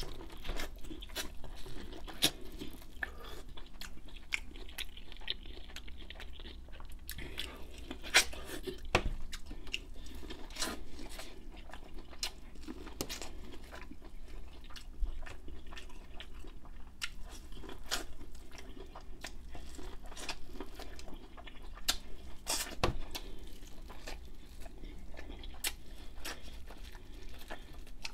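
Biting and chewing boiled corn on the cob, with irregular crunches all through.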